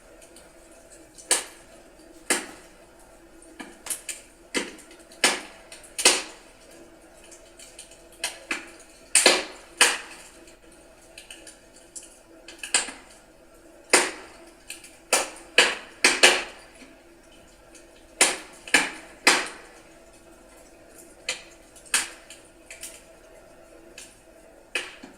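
Burning firewood crackling in a fireplace: irregular sharp pops and snaps, about one a second and sometimes several in quick succession, over a faint steady background.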